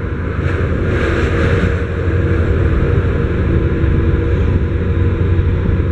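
Boat engines running as a steady low drone, with a rush of noise that swells and fades about a second in.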